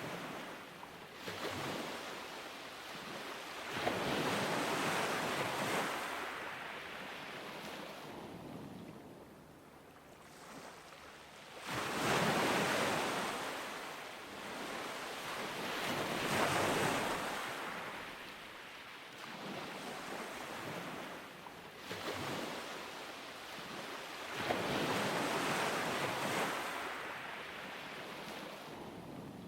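Ocean surf washing onto a beach, with waves breaking and receding in slow swells every few seconds. The loudest break comes about twelve seconds in.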